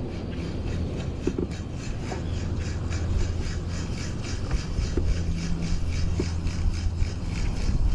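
A baitcasting fishing reel being cranked in a steady retrieve, giving a fast, even mechanical clicking of about four or five ticks a second over a low hum.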